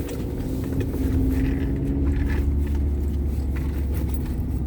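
Car driving, heard from inside the cabin: a steady low rumble of engine and road noise, with a faint engine hum that rises slightly about a second in.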